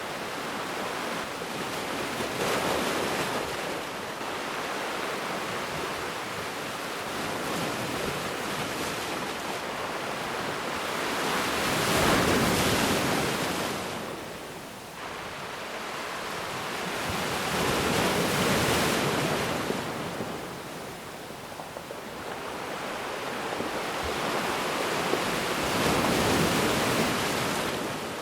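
Ocean waves breaking on a beach: a steady wash of surf that swells and ebbs, with the biggest surges about six to eight seconds apart.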